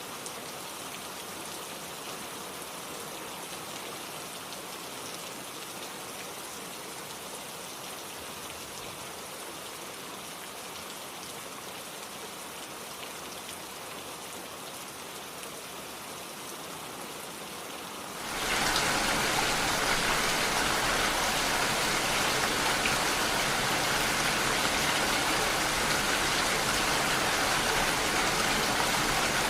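Steady rain falling, an even hiss. About eighteen seconds in it abruptly becomes much louder and fuller, like a heavier downpour.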